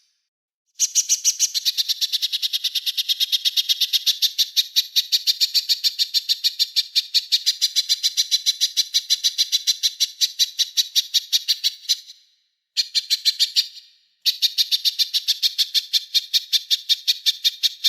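Small songbird calling a fast, even string of sharp high notes in three runs: one long run, then two shorter ones after brief breaks.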